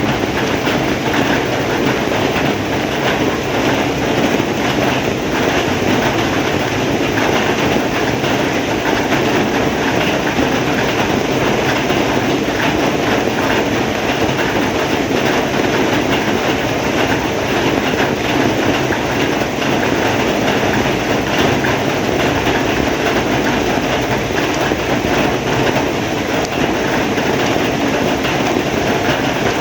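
Heavy rain falling steadily, a loud even hiss of dense raindrops without a break.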